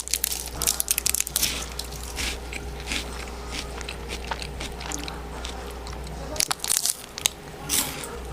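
Close-up eating sounds: bites and chewing of food. Irregular clusters of small crackling clicks come thickest at the start, about a second in, and again near the end.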